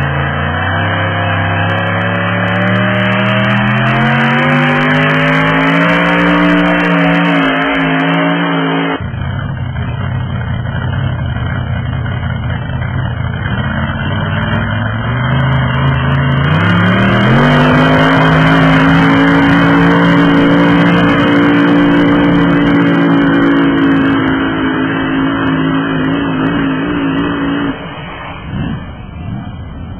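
Farm tractor engine under full load in a tractor pull, its pitch climbing steadily as it revs. The sound breaks off abruptly about nine seconds in. Then the engine revs up again around sixteen seconds, holds a steady high pitch, and falls away near the end.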